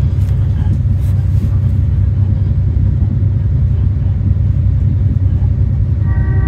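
Endeavour diesel railcar running at speed, heard from inside the carriage: a steady low rumble of engine and wheels on the track. A brief pitched tone sounds near the end.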